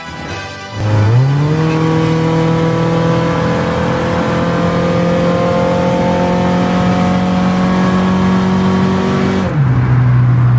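Car engine heard from inside the cabin, its pitch climbing quickly as the car pulls away, then rising slowly and steadily under acceleration before dropping suddenly near the end as the transmission shifts up.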